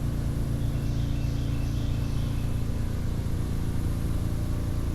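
A small boat's outboard motor running steadily while the boat cruises along.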